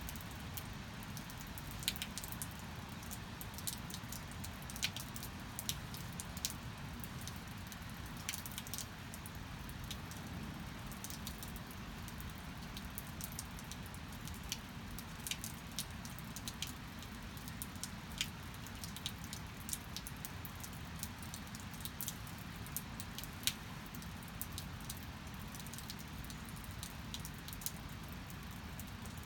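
Steady rain falling, with many irregular sharp clicks of drops striking a surface close by.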